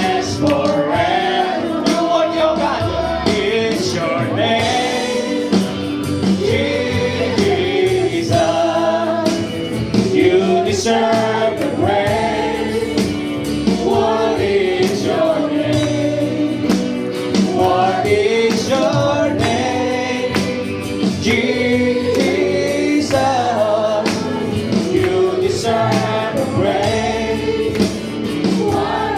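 Gospel music: a choir of voices singing over instrumental accompaniment with a steady percussive beat.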